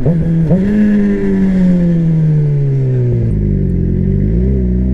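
Motorcycle engine under the rider, its revs falling steadily for about three seconds, then changing, dipping and climbing again near the end, over a low rumble.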